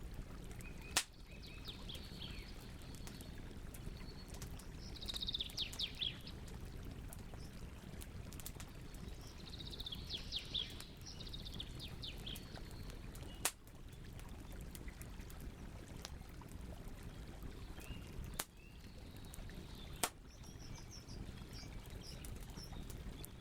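Campfire burning with a steady low rush and a few sharp crackling pops, four standing out. A songbird sings two short, rapid trilled phrases in the first half, and fainter chirps follow near the end.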